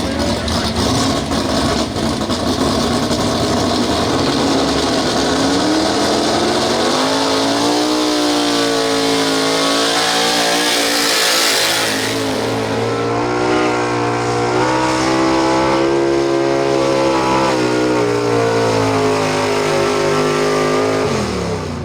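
Small-block super stock 4x4 pulling truck's V8 engine at full throttle: it climbs in pitch a few seconds in, holds at high revs with a brief dip about halfway, then drops off sharply near the end as the throttle is let off.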